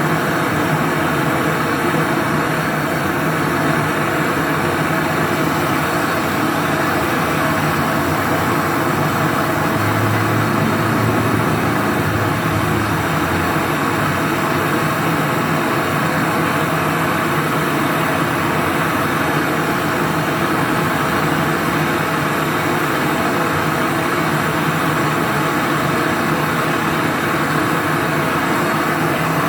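Brazing torch flame hissing steadily while it heats the copper joint for the compressor's charging valve. A low hum swells briefly about ten seconds in.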